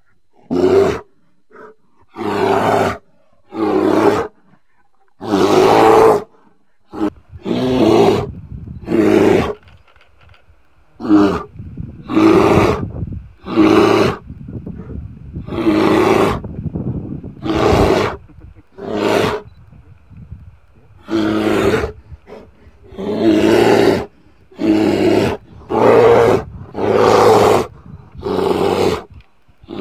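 Bear roaring and growling over and over, in loud bursts of about a second with short gaps between them.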